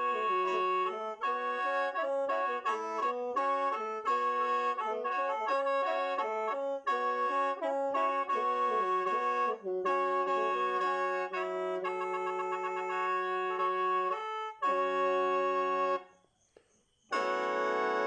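Lao khaen, a bamboo free-reed mouth organ, played solo: a quick melody in chords over held drone notes. About 16 seconds in it stops for about a second, then resumes.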